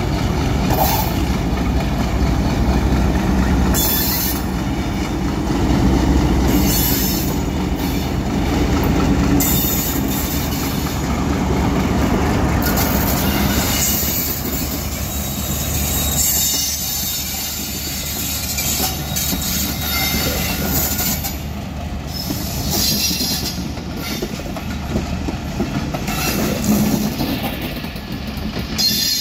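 Pakistan Railways diesel-electric locomotive No. 8316 pulling a passenger train out of the station and passing close, its engine running, then the coaches rolling by with clickety-clack and repeated high wheel squeals.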